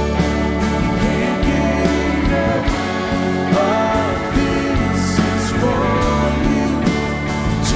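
Live worship band music: full-band instrumental with guitar and drums keeping a steady beat.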